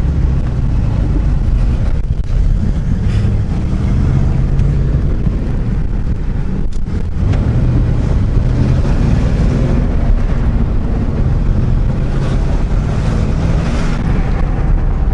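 Pickup truck's engine running with steady road and wind noise, its pitch shifting a little with the revs as the truck drives.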